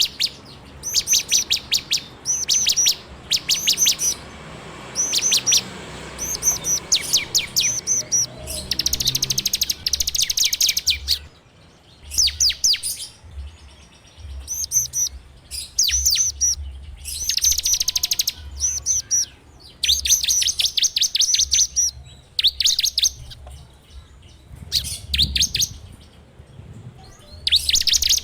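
A ciblek (prinia) singing in bouts of rapid, sharp repeated notes: the fast rattling 'ngebren' trill. The bouts last about half a second to two seconds, with short pauses between them.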